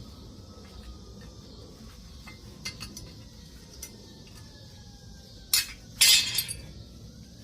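Hard objects clinking and knocking: a few light clicks, then two loud sharp clinks about five and a half and six seconds in, over a low steady background hum.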